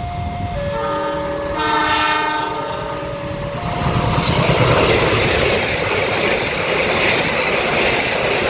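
A two-tone warning signal alternating between a high and a low note, then a multi-note train horn blast about two seconds in. From about four seconds a passing train takes over, a loud steady rush with wheels clattering over the rail joints.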